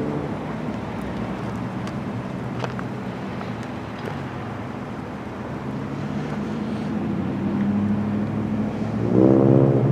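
An engine running with a steady pitched hum that fades a little, then grows louder from about six seconds in and gets much louder and fuller about nine seconds in, as if it is coming closer.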